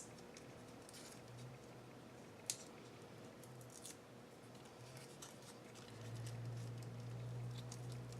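A few sharp scissor snips and quiet handling of craft materials, with 3D foam adhesive being cut and placed. A faint low hum comes in about six seconds in.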